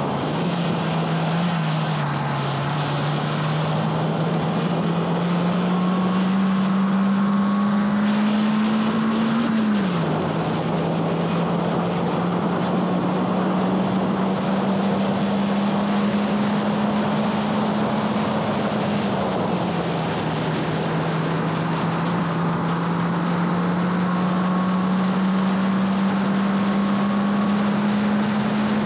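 2011 Honda Fit Sport's 1.5-litre four-cylinder engine running hard under load, its note climbing slowly through the revs and dropping sharply twice, about a third and two-thirds of the way through, over steady wind and tyre noise.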